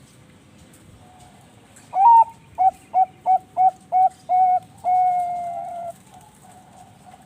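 A Bangkok-line zebra dove (perkutut) sings one full song phrase. A rising opening coo is followed by six short, evenly spaced coos and one long, drawn-out final coo that falls slightly. Fainter cooing sits underneath.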